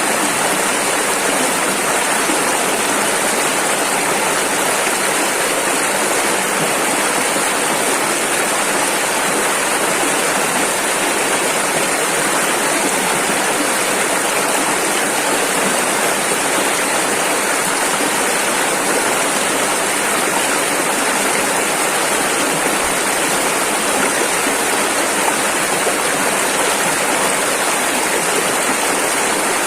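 A rushing river, its fast water making a steady, unbroken rush.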